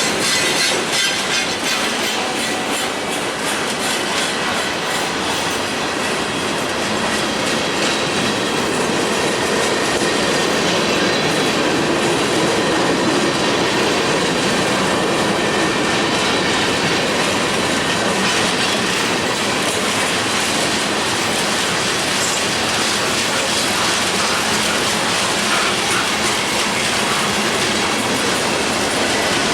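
Freight cars rolling past at steady speed: steel wheels clicking over rail joints under a continuous rumble, with a faint high wheel squeal.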